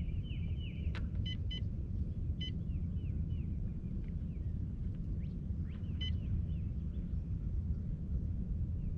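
Steady low rumble with a scatter of short, high bird chirps over it, several sliding down in pitch.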